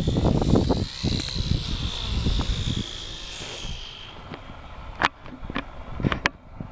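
Small electric RC model plane's motor and propeller whining at a steady high pitch, with wind buffeting the microphone. The whine fades out a little under four seconds in, followed by a few sharp clicks.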